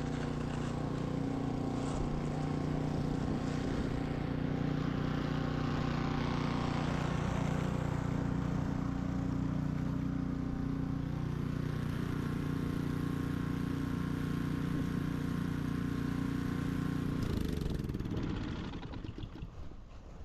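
Ariens 21-inch professional snow blower's engine running steadily under load, then slowing and dying away near the end as it is shut off.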